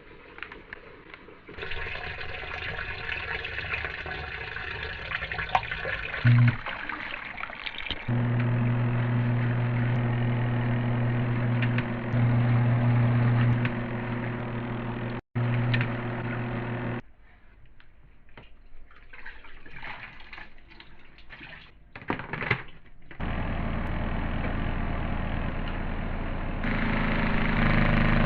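Portable twin-tub washing machine at work in several cut-together stretches. Water rushes and sloshes in the tub, then the motor hums steadily. A quieter stretch follows with scattered knocks, and near the end a low steady hum returns.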